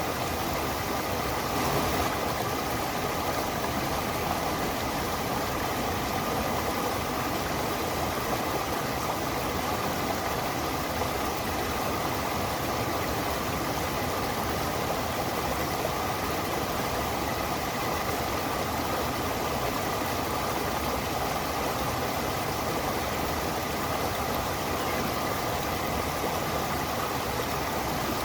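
Stream water rushing steadily over rocks, an even continuous noise, with one brief faint knock about two seconds in.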